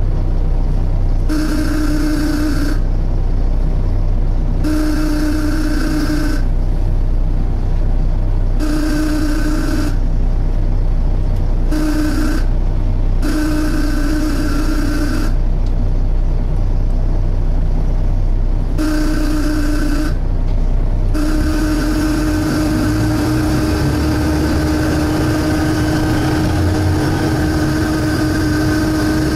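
Inside a Volvo B7TL double-decker bus: the engine runs under a loud suction noise, a droning whine with hiss. For about 21 s it cuts in and out every second or two, then holds on steadily.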